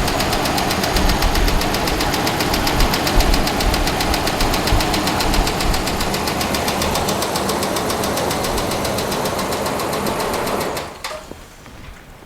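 Ram truck's Hemi V8 engine running with a rapid, even ticking knock, recorded close up, then shut off near the end. It is the suspected 'Hemi tick', which the owner says is more than ticking.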